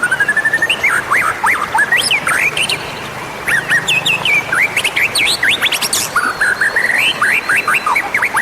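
White-rumped shama (murai batu) song: a rapid run of loud whistles and chirps sweeping up and down in pitch, opening with a rising whistle, with a brief pause about three seconds in.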